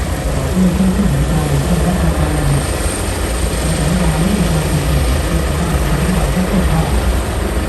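Airbus EC645 helicopter running close by: a loud, steady rush of rotor and turbine noise with a deep rumble underneath.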